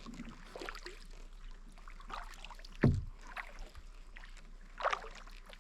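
Kayak paddle dipping and splashing in the water, stroke after stroke, with a dull thump about three seconds in.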